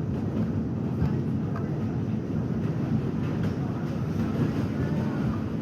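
R68 subway train running, a steady low rumble of wheels on rails, with faint voices underneath.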